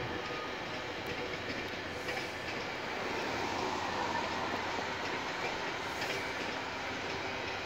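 Exo commuter train's bilevel coaches rolling along the track, a steady rolling noise with a few faint clicks. A car drives past on the street about four seconds in, adding a brief swell of tyre noise.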